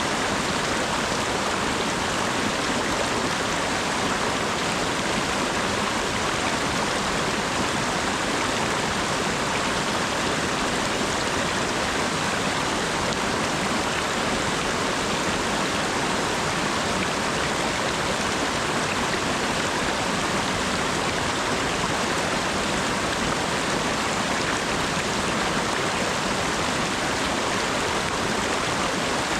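Steady autumn rain falling, an even continuous hiss with no breaks or single drops standing out.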